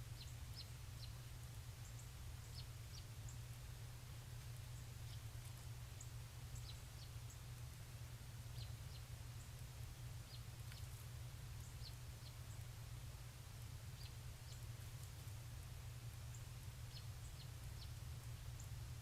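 Faint, brief high chirps from small birds, scattered irregularly, over a steady low hum.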